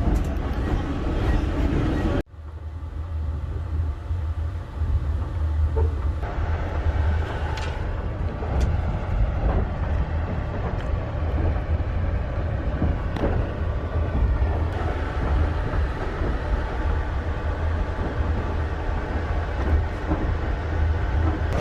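Passenger train running on the rails: a steady low rumble with scattered short clicks and knocks from the wheels and carriage. There is an abrupt cut to this sound about two seconds in.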